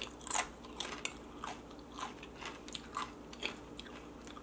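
Close-miked chewing of a salsa-dipped tortilla chip: irregular wet mouth clicks and soft crunches, a few each second.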